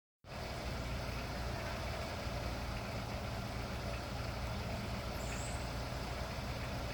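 Steady low mechanical hum, like an idling motor, with a brief faint high squeak about five seconds in.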